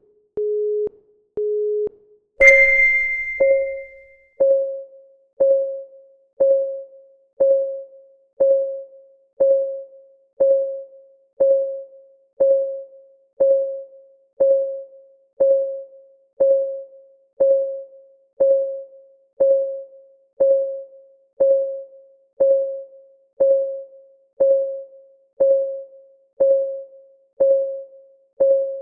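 Countdown timer sound effects: two short electronic beeps, then a bell-like chime about two and a half seconds in. After the chime comes a steady clock tick, one short ringing tick every second.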